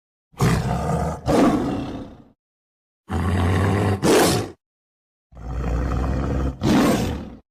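Lion roaring: three loud roars separated by short silences, each roar made of two surges.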